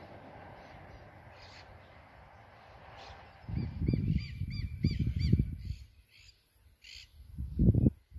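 A bird calling in a quick run of short repeated calls, about five a second, over gusts of wind rumbling on the microphone. The wind gusts are the loudest sound, about halfway through and again near the end.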